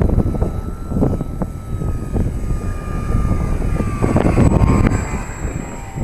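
Electric motor and propeller of a ParkZone Visionaire RC plane whining, the pitch slowly falling, under heavy wind buffeting the microphone.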